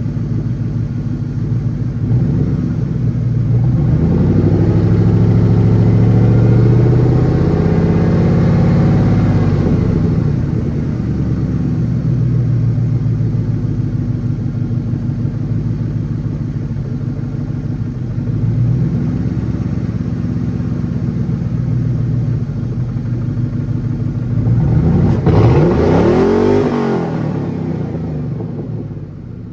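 Ford Mustang's 4.6-litre V8 running loud with its exhaust blown off. It is revved up and back down twice: a long rise and fall early on, and a shorter one a few seconds before the end.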